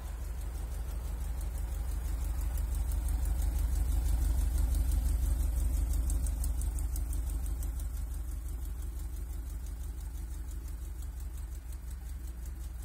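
Lancia Scorpion's twin-cam four-cylinder idling steadily, heard at its dual-outlet exhaust tips. It grows louder toward the middle and then eases off again.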